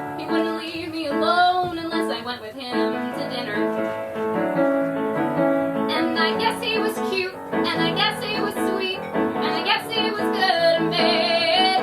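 A woman singing a musical-theatre song with piano accompaniment, holding some notes with vibrato.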